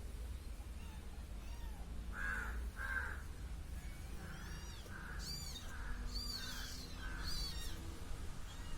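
Kitten meowing with high, thin calls, three times in the second half, over a crow cawing in a string of harsh calls about half a second apart.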